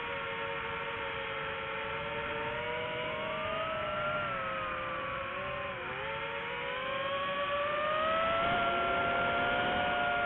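Quadcopter drone's propellers whining in flight, several tones drifting up and down as the motors change speed, with a brief dip about six seconds in and a louder, higher whine from about eight seconds on.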